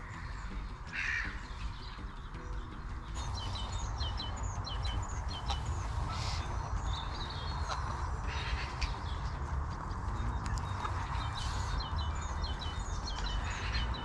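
Wild birds calling: one harsher call about a second in, then many short, high chirps from about three seconds on, over a steady low rumble.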